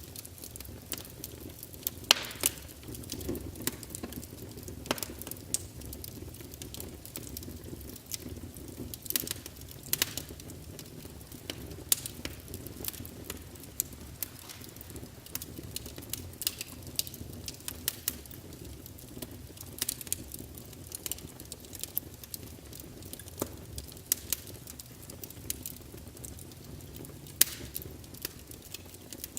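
Firewood burning in a fireplace, crackling with irregular sharp pops over the low steady rumble of the flames. A louder pop comes about two seconds in and another near the end.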